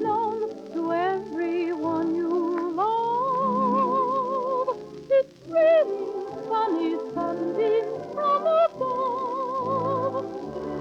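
1930s orchestral song recording played from a 78 rpm shellac record: a soprano voice with wide vibrato, holding long notes and running through quick ornamented figures over the orchestra, with no clear words.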